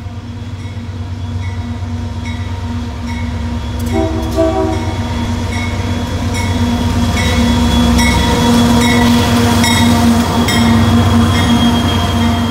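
Union Pacific GE Dash 9 diesel locomotive hauling a stack train past at speed, its engine rumble growing louder as it approaches. A bell dings steadily, a little under twice a second, and two short horn toots sound about four seconds in.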